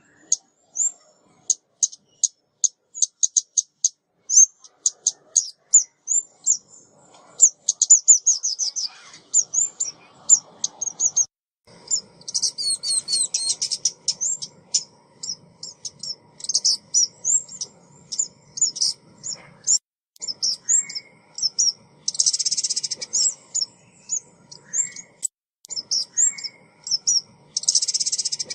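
Female ốc mít bird calling, as used in a trappers' lure recording: a fast, continuing series of short high chirps and tweets. Several denser buzzy trills come about 12, 22 and 27 seconds in.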